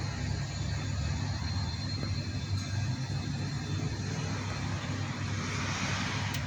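A steady low engine hum, like an engine idling, with a short rise of hiss and a single click near the end.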